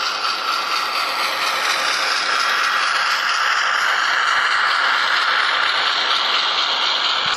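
Hornby Class 08 OO-gauge model shunter running on its track, its DCC sound decoder playing the diesel engine through the small onboard speaker. The sound is a steady rattling engine note with no deep bass.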